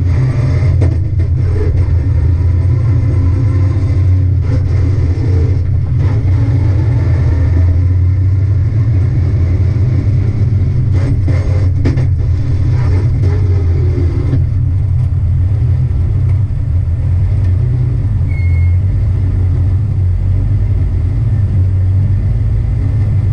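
Drift car's engine running at low revs, heard inside the stripped, roll-caged cabin: a steady deep rumble as the car rolls slowly. A few knocks and rattles in the first half, then it runs more evenly.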